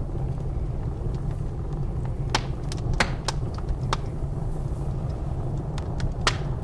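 Wood fire crackling in a fireplace, with a few sharp pops, the loudest about three seconds in and again near the end, over a steady low rumble of blizzard wind.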